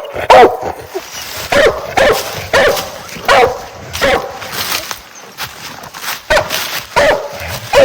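Treeing Walker coonhound barking steadily at the foot of a tree, about one to two barks a second: a hound baying treed, marking a raccoon up the tree.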